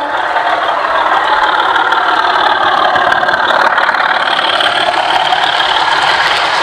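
Model Class 24 locomotive's DCC sound decoder playing a Sulzer diesel engine sound through the model's small speaker, running steadily.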